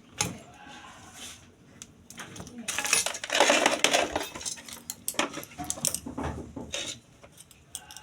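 Clinking and clattering of small hard objects being handled: scattered knocks and clicks, with a denser, louder rattle about three seconds in.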